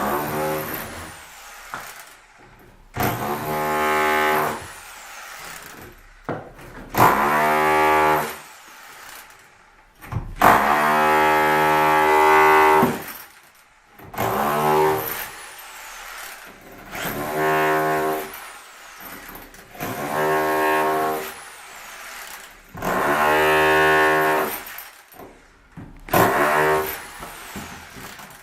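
A handheld electric power tool's motor spins up and runs in short repeated bursts of about two seconds, around nine in all, with brief pauses between. Each start climbs quickly in pitch to a steady whine.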